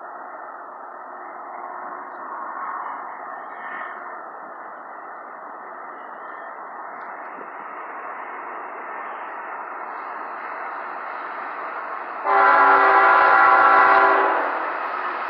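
CSX freight train drawing closer, its rumble slowly growing louder; about twelve seconds in, the lead GE locomotive's air horn sounds one loud chord of several tones for about two seconds, then fades back into the train's running noise.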